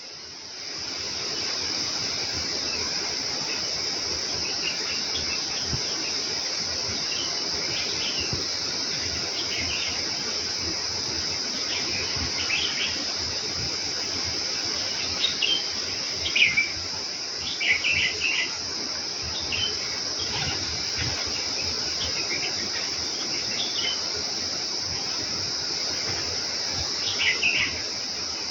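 House sparrows chirping in short scattered bursts, busiest a little past the middle and again near the end, over a steady high-pitched insect drone.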